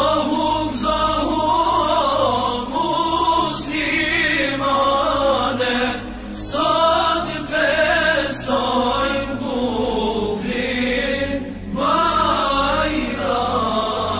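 Unaccompanied-style Islamic devotional chanting (an ilahi for Eid): a voice singing long melismatic phrases that waver in pitch, over a steady low drone, with short breaths between phrases.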